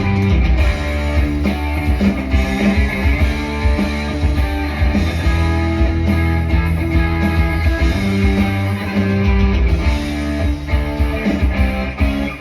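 Live band playing an instrumental passage, with guitar prominent over a steady low bass line.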